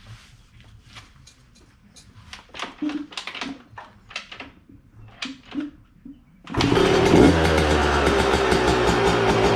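2013 Yamaha YZ125 two-stroke dirt bike being kick-started: a series of clattering kicks and knocks, then the engine catches about six and a half seconds in and runs loudly, with a brief blip of the throttle, on its freshly cleaned carburetor.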